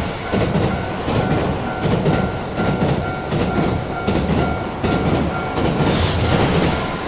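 A train passing over a level crossing, its wheels clattering over the rail joints in a continuous rumble. Above it, the crossing warning bell keeps ringing on a steady high note.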